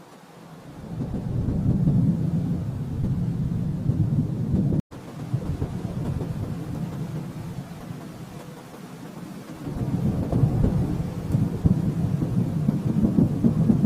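Thunder rumbling in two long, deep rolls: the first swells about a second in and breaks off abruptly near five seconds, and a second roll builds again about ten seconds in.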